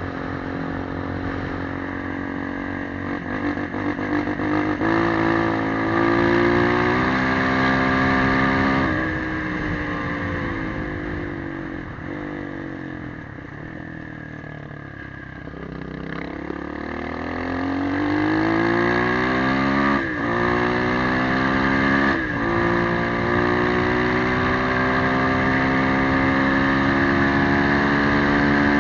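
Motorcycle engine under way: it pulls up in pitch, holds, then eases off and slows about halfway through before accelerating again, with two quick gear changes a few seconds apart, and settles into a steady cruise.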